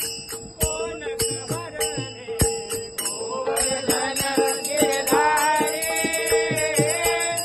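Devotional bhajan music: a steady, rhythmic beat of drum strikes and jingling hand percussion, with a voice singing the melody from about halfway in.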